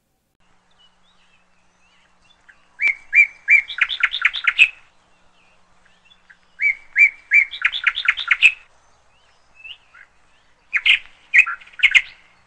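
A songbird singing three short phrases a few seconds apart, each a few clear notes followed by a quick run of notes.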